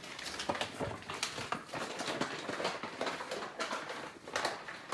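Chicken wings being shaken in a bag of flour to coat them, a quick, irregular rustling and patter.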